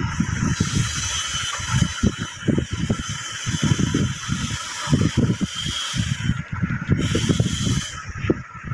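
Handling noise as a 32-inch LED TV is turned over face down: irregular soft bumps and rustling over a steady hiss.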